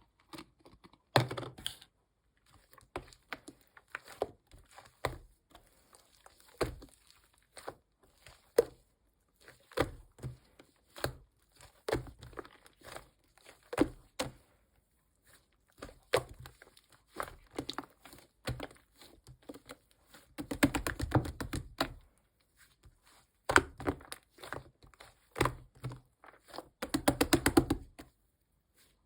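White slime being mixed and squished by hand: a string of sticky clicks and pops, with two longer runs of quick crackling squishes about twenty and twenty-seven seconds in.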